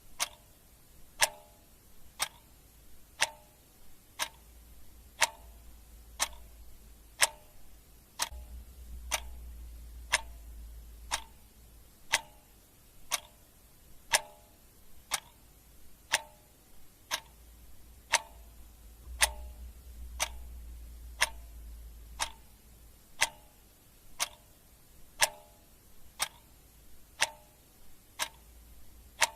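Clock ticking steadily, one tick a second, each tick a sharp click with a brief ring. A faint low hum underneath swells up twice.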